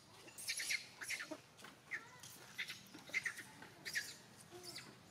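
Forest birds chirping: short, high chirps with quick pitch slides, coming in irregular clusters several times a second.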